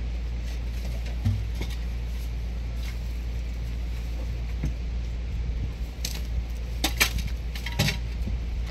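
Steady low rumble with a few sharp clicks and clatters: one about a second in and several close together near the end.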